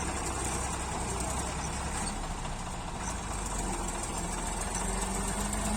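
Tractor diesel engine running steadily, a continuous low rumble, with a steady hum coming in near the end.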